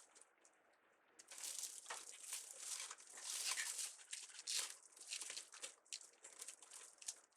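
Plastic crinkling from a discarded ribbon spool slowly settling inside a garbage bag, with irregular soft crackles starting about a second in.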